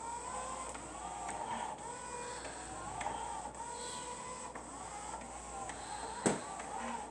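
Robot spin mop running across the floor: a whirring motor whine that wavers in pitch, with scattered light clicks and one sharp knock about six seconds in.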